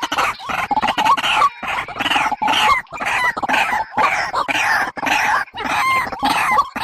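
Bird calls of the kind played to lure birds to traps: a fast, unbroken run of short clucking notes, several a second.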